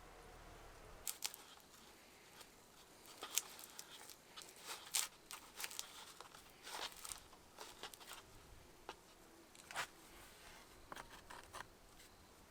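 Irregular crisp snaps, crackles and rustles, a scattered run of them over several seconds, from hand work in a garden.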